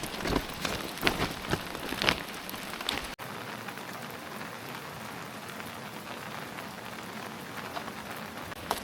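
Steady rain falling, a constant even hiss. For about the first three seconds irregular knocks and crunches sound over it, then they stop abruptly and only the rain remains.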